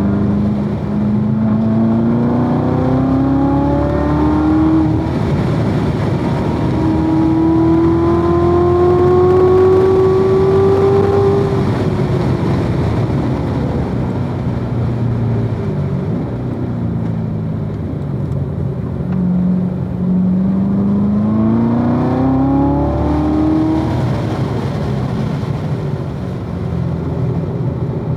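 2016 Corvette Z06's supercharged V8 under hard acceleration on track. Its pitch climbs, drops at an upshift about five seconds in, and climbs again to a peak a little before halfway. It then falls away as the car slows, and climbs once more for a few seconds later on.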